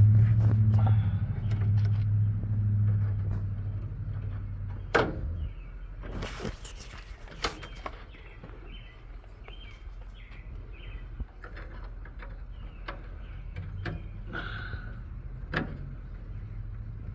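A low motor-vehicle hum that fades out about four seconds in. A sharp knock follows a second later, then scattered clicks and clanks.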